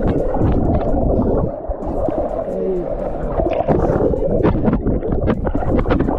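Sea water surging and sloshing, a heavy rumbling noise with scattered splashes.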